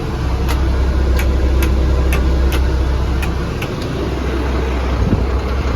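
International DT 466 diesel engine of a fire truck idling steadily, with sharp ticks about twice a second over the low engine note.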